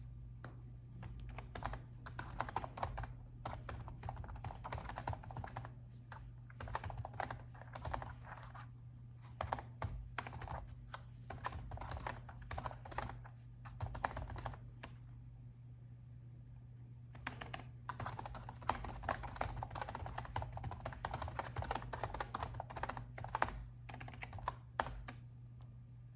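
Typing on a laptop keyboard: quick runs of key clicks broken by short pauses, and a longer pause about halfway through. A steady low hum runs underneath.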